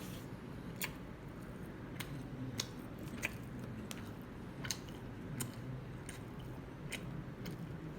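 Close-up chewing of a hamburger with ketchup and spicy mustard, with wet mouth clicks about once a second.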